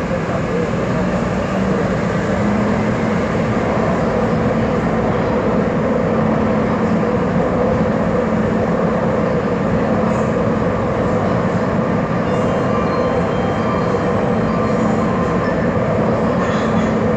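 C301 metro train with GTO-VVVF traction running: a steady rumble of wheels and running gear with a few held tones from the traction equipment.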